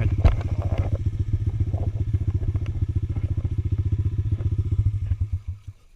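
Single-cylinder motorcycle engine idling with a rapid, even beat, then switched off near the end, its firing slowing and dying out. A single knock sounds just after it starts.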